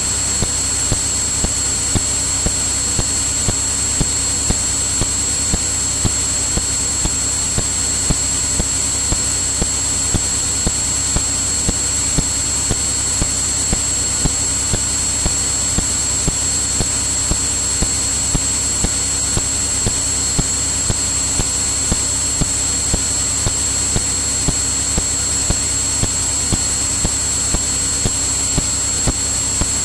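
Steady drone of a Cirrus single-engine piston airplane's engine and propeller in cruise, heard in the cockpit, with a thin high steady whine and faint regular ticks in the audio feed.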